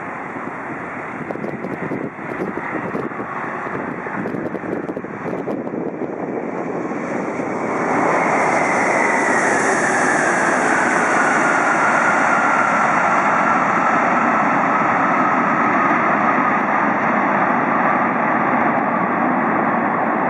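Flight-simulator jet engine sound of an Airbus A340-600 landing: a steady rushing noise that steps up louder about eight seconds in, with an engine whine that slowly falls in pitch.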